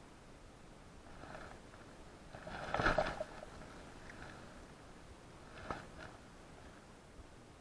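A fishing cast: a short swish about three seconds in, then a light click a few seconds later.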